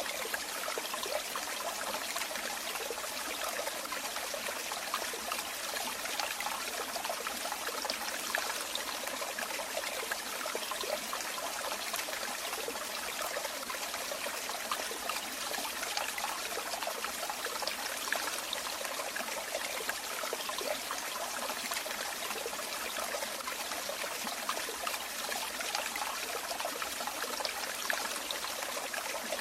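Running water trickling and splashing steadily, a continuous bubbling stream of falling water with many small splashes and no change.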